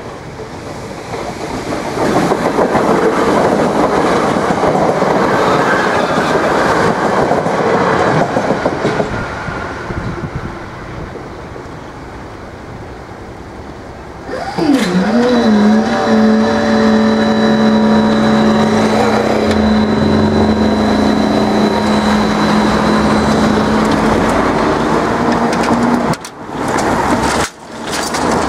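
A DART class 8100 electric multiple unit passes over a level crossing with a rushing rumble of wheels on rail, loudest for several seconds and then fading. About halfway through, a steady humming tone with overtones starts and stops suddenly near the end.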